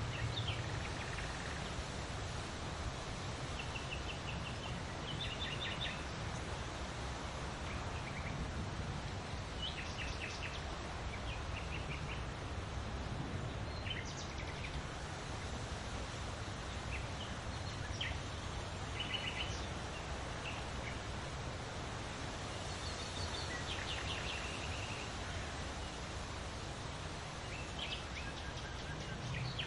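Several songbirds calling now and then, in short chirps and quick trills of repeated notes, over a steady low background noise.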